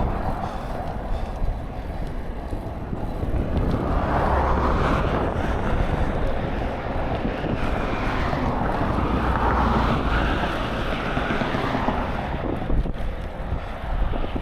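Wind buffeting the microphone during a bike ride: a steady low rumble, with a louder rushing swell through the middle that fades near the end.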